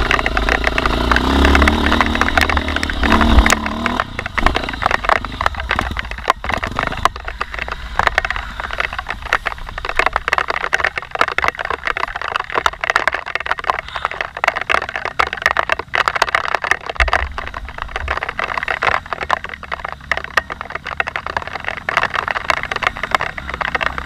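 Off-road motorcycle engine running on a trail, loudest in the first few seconds and easing off after about seven seconds. A dense crackle of small clicks and knocks runs under it throughout.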